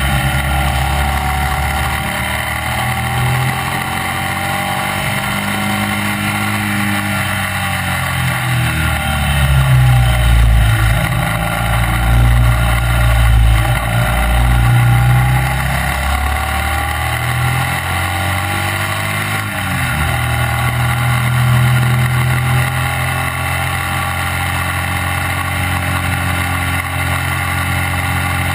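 Classic racing sidecar outfit's engine heard close up at racing speed, revs rising and falling as it accelerates, shifts and slows through the corners. A steady rush of wind and road noise runs under it.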